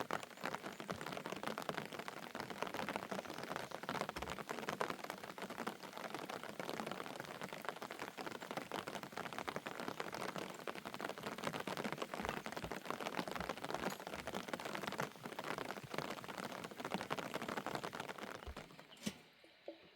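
Steady rain falling, a dense patter of many drops. It dies away sharply near the end.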